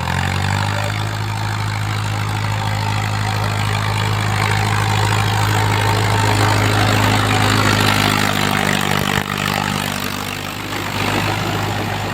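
Tractor diesel engine running steadily at a fixed pitch, with a loud rushing noise over it.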